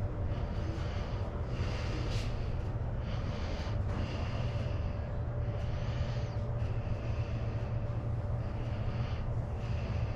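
A vehicle engine running steadily with a low rumble, with patches of hiss coming and going.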